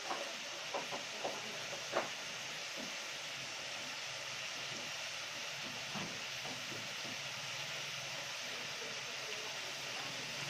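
Chicken pieces and dried oysters sizzling in an aluminium pot: a steady hiss with a few sharp pops in the first two seconds and another about six seconds in.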